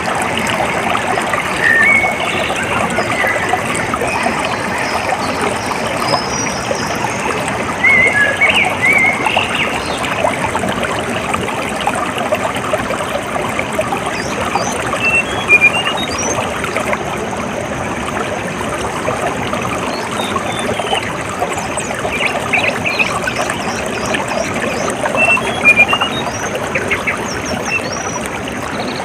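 Water trickling and splashing steadily, like a small stream or outflow, with birds chirping in short calls now and then.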